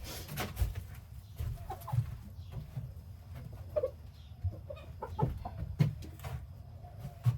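Chickens clucking in short, scattered calls, among several sharp knocks and low thumps.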